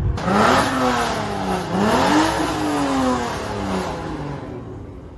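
Car engine revving hard twice, the pitch climbing and falling each time, then dying away.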